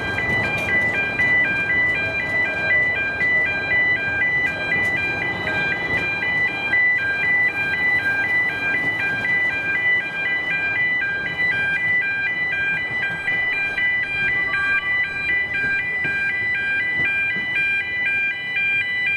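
Electronic warning alarm sounding a steady, rapidly alternating pattern of high tones, over rough outdoor background noise.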